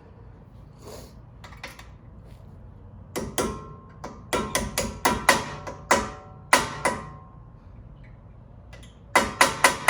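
Hammer striking a pin punch to drive a brake caliper's pad-retaining pin, in sharp metallic taps with a brief ring. Two taps come about three seconds in, then a steady run of about a dozen, a pause, and a quick run of four near the end.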